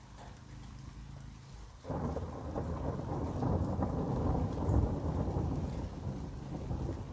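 Rain falling, then about two seconds in a loud peal of thunder breaks in suddenly and rolls on for several seconds, swelling and then easing near the end.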